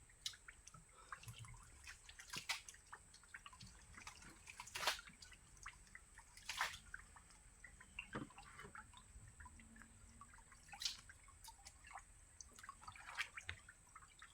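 Faint scattered drips and splashes of shallow muddy water, with about five louder splashes spread through, from wading and catching fish in a drained fish pond.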